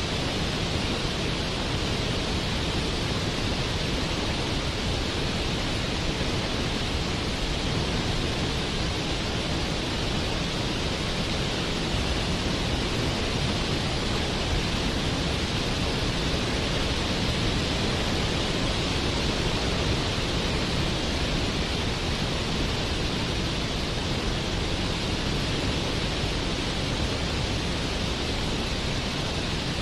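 Waterfall: a steady rush of falling water, even and unbroken, with no separate splashes or changes.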